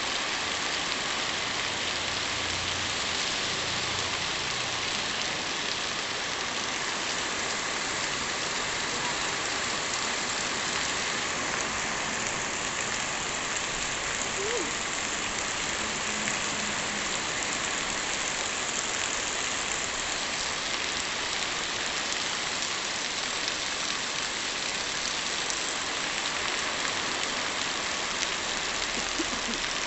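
Heavy rain falling steadily on hard surfaces, a dense even hiss.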